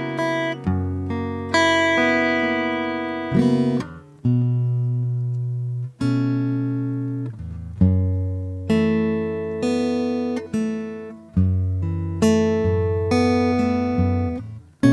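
Solo acoustic guitar played slowly: plucked chords and single notes, each struck and left to ring out and fade, with short pauses between phrases.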